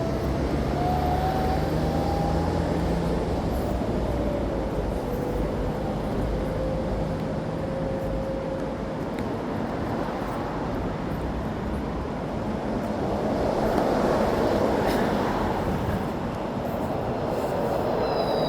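Steady rumble of passing vehicles, with a motor whine that rises over the first few seconds and then drops. A brief high squeal falls away near the end.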